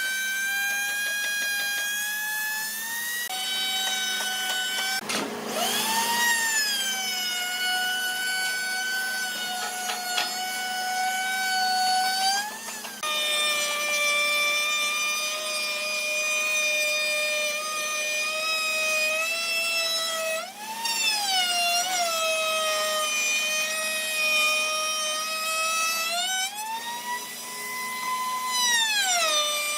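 Whine of a high-speed woodworking power tool motor, a steady pitched tone that dips and swells in pitch several times as the tool is loaded and eased off the wood. The tone shifts abruptly twice, about three seconds in and again near thirteen seconds.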